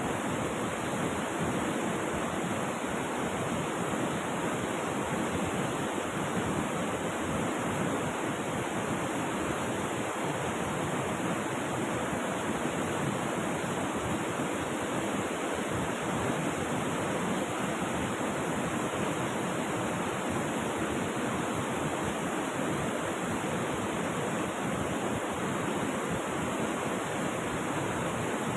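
Steady rush of flowing river water, an even unbroken roar with no single splashes standing out.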